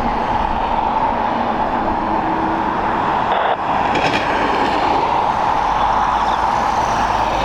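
Steady jet aircraft engine noise, with a faint whine about four seconds in.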